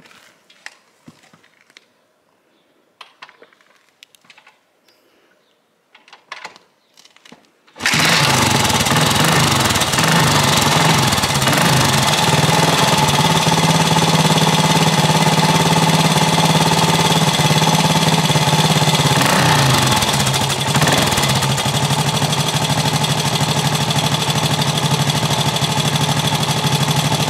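Suzuki DR370C's single-cylinder four-stroke engine, with an aftermarket rear silencer, kickstarted: a few knocks from the kickstart, then it fires on the second kick about eight seconds in and runs steadily.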